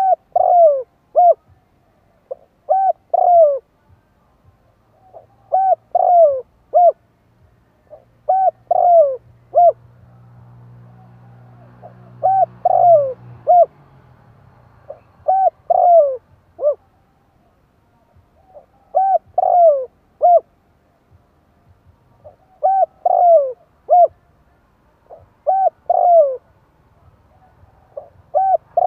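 Spotted dove cooing, repeating the same short phrase of three or four falling coos about every three seconds. A faint low hum comes in briefly around the middle.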